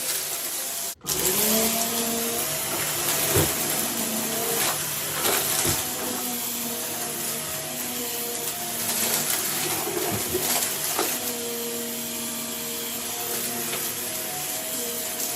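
Vacuum cleaner running, its motor whine wavering in pitch as it is worked over the floor, with a few light knocks. The sound cuts out for an instant about a second in, then the whine swings back up.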